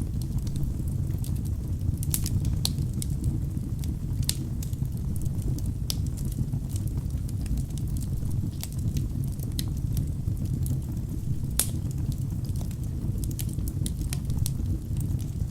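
Wood fire burning in a fireplace: a steady low rumble of flames with scattered sharp crackles and pops of the burning logs, the loudest pop about twelve seconds in.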